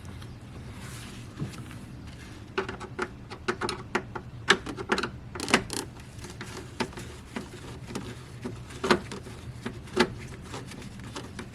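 Irregular clicks and knocks of a hand tool and small parts, as a Torx screw is undone from the plastic bracket that holds the intake pipe to the fan. The clicks come thickest from about two and a half seconds to six seconds in, then thin out to single knocks.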